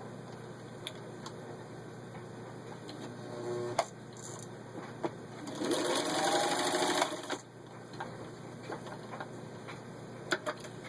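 Singer 15-91 sewing machine stitching through thick leather belt: a short run about three seconds in, then a louder run of about two seconds in the middle, with a few sharp clicks near the end.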